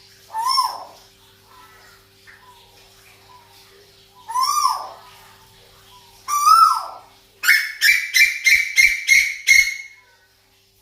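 Female tuwu bird calling: three separate downward-arching calls a few seconds apart, then a quick run of about eight sharp notes, roughly three a second, that stops near the end. A faint steady hum runs underneath.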